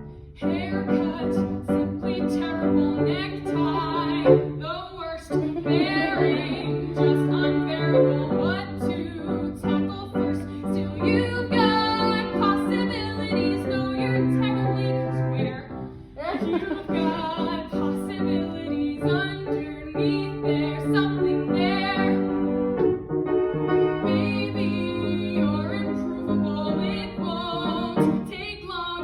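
A young woman singing a musical-theatre song with vibrato on held notes, accompanied by piano.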